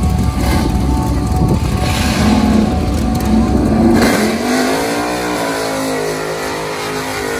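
Car engine running loud with a deep rumble, then revving up with a rising pitch about four seconds in and holding at a higher note.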